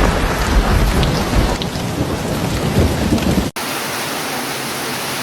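Heavy rain with a low rolling thunder rumble. About three and a half seconds in it cuts off abruptly and gives way to a steady, even hiss of falling water without thunder.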